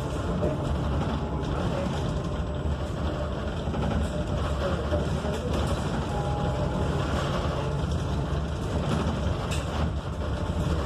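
Steady low rumble of road and tyre noise inside a Proterra Catalyst BE35 battery-electric bus under way.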